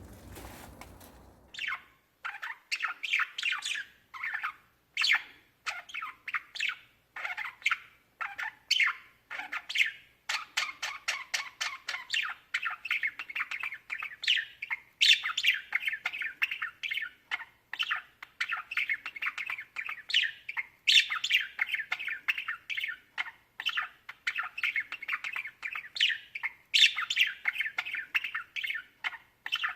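Small birds chattering: a dense stream of rapid, overlapping chirps and squawks that starts about two seconds in and keeps going without a break.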